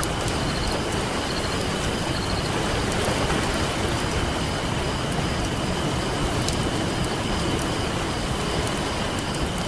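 Campfire crackling with scattered small pops over the steady rush of ocean surf.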